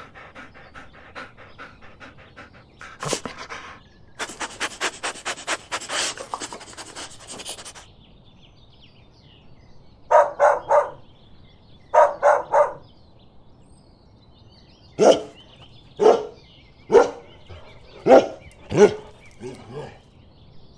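A dog panting fast and rhythmically, then giving two short bursts of pitched yips and a run of single barks about one a second near the end.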